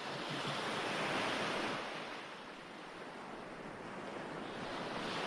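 Ocean waves washing on a shore, from a recorded surf track: one wave swells and peaks about a second in, then ebbs away, and the next builds near the end.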